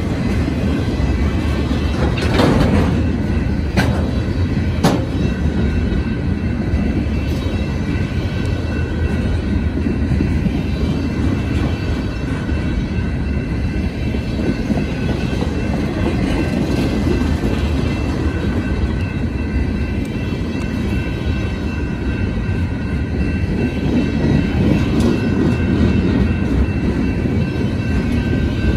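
Freight train of empty flatcars rolling past at speed: a steady rumble of steel wheels on rail, with a few sharp clanks a couple of seconds in.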